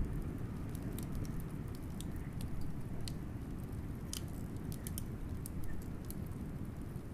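Wood fire crackling, with frequent small sharp pops and snaps, over a steady low rumble of blizzard wind.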